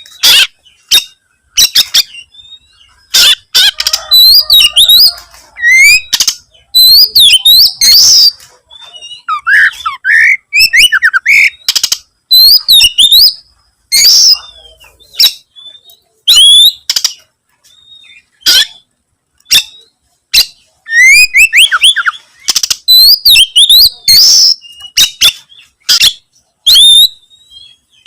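Oriental magpie-robin (kacer) singing loudly in rapid bursts of varied whistled notes that sweep up and down, mixed with sharp clicks, each burst separated by short pauses.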